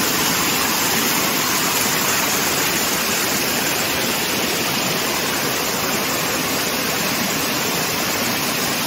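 Steady rush of running water, even and without breaks, from a monsoon-swollen stream in heavy rain.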